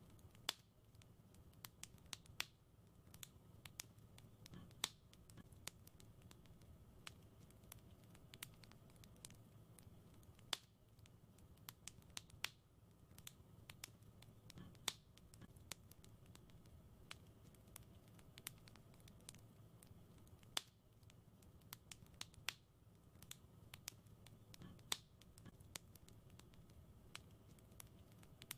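Wood fire in a fireplace crackling quietly: irregular sharp pops and snaps, a few every second, over a soft low rumble of the flames.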